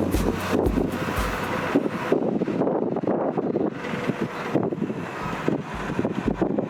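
Wind buffeting the microphone over the running noise of a moving tour bus. A low bass beat of background music pulses about twice a second at the start and again near the end.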